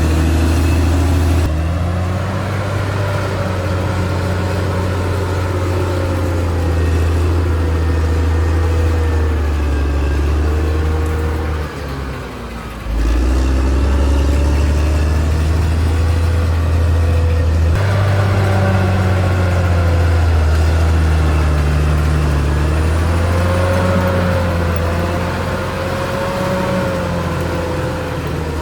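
Caterpillar D6R XL bulldozer's diesel engine running under working load, its pitch rising and falling as the load changes. The engine note sags briefly about twelve seconds in, then picks up again.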